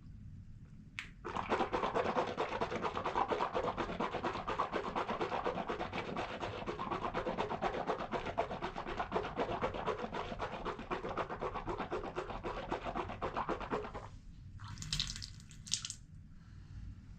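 A person gargling water at the back of the throat: a fast, continuous bubbling rattle lasting about thirteen seconds, which stops abruptly. Shortly afterwards comes a brief burst of hissing.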